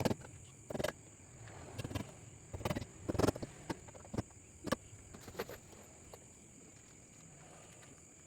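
A series of irregular wooden knocks and taps from working and handling timber, about ten over the first six seconds, some with a short ring. After that only a faint steady hiss remains.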